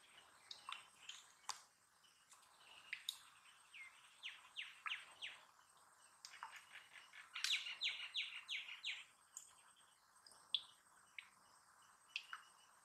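Birds chirping: scattered short chirps that fall in pitch, with a quicker, louder run of chirps a little past halfway.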